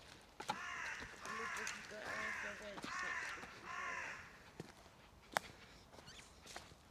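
A crow cawing five times in a row, evenly spaced, followed by a single sharp click.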